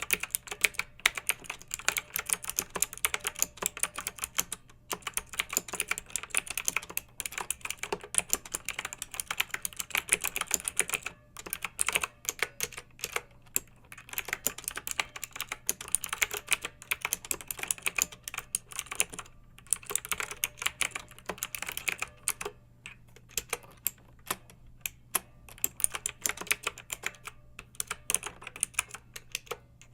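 Clicky mechanical keyboard being typed on: a fast, uneven run of sharp keystroke clicks, broken by a few short pauses.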